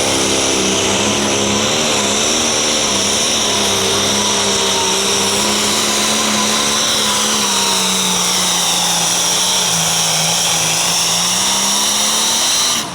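International 1066 pro stock pulling tractor's diesel engine running flat out under load, with a high whine over the engine note. Its pitch sags a little past the middle and climbs again before the sound cuts off abruptly near the end.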